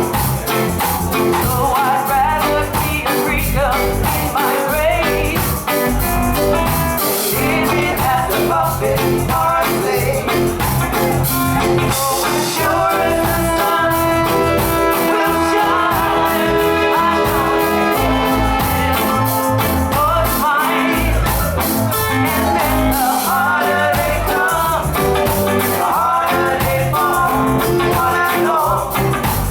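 Live reggae band playing, with a singer's voice over guitar, bass and drums; in the middle the voice drops out for a stretch of long held chords before the singing returns.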